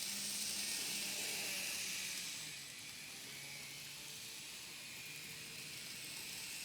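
N scale model train running on its layout track: a steady faint hum under an even hiss, which drops a little after about two seconds.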